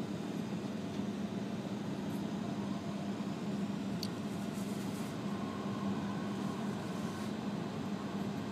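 Steady running noise inside the passenger cabin of an E5-series Shinkansen train: an even rumble with a continuous low hum, and a brief click about four seconds in.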